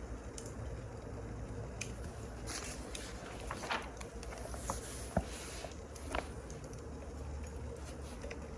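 Wood fire crackling, with scattered pops over a low steady rumble; the sharpest pop comes about five seconds in.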